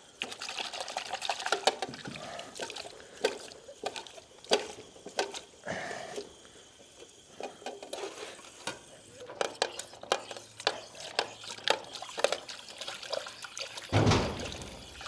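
Water running and splashing as a duck's water bowl is rinsed and filled, with scattered knocks and clicks of the bowl being handled. Near the end comes one loud ka-thunk.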